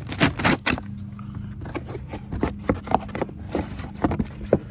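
Packaging rustling and scraping as the air filter kit's box is opened and its parts handled, loudest in the first second, then a few knocks and clicks, over a steady low hum.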